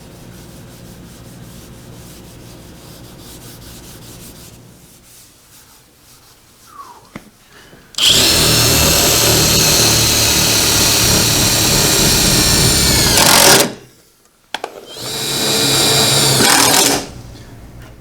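Power drill running twice, first for about five seconds, its pitch dropping as it stops, then for about two and a half seconds, likely drilling or driving screws into the cabinet's wooden back panel. A faint steady hum is heard before the first run.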